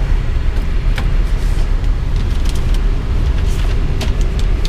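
Airbus A320 flight deck slowing on the runway after touchdown: a steady low rumble of the rolling airliner, with a few short sharp clicks.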